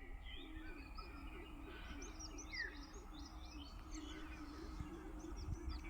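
Birds chirping and calling, several short high chirps overlapping, with a low call repeated about three times a second underneath.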